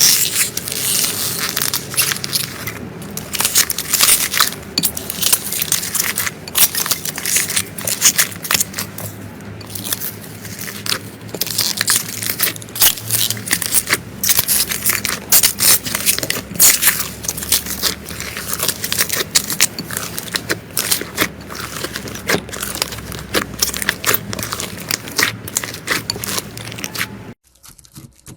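Slime being pressed and worked by hand, giving a dense run of crackling, popping clicks. It cuts off abruptly about a second before the end.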